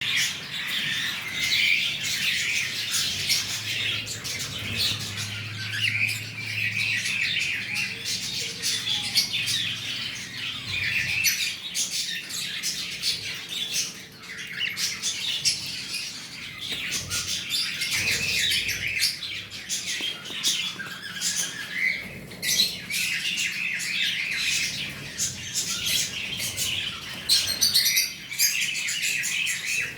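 Cockatiel chirping and squawking over and over in short calls, with a steady stream of sharp clicks.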